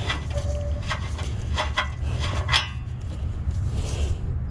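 Metal clinks and light scraping of a slotted oxygen-sensor socket and the O2 sensor as the sensor is spun out of the S2000's exhaust pipe: about six sharp clicks in the first three seconds, over a steady low rumble.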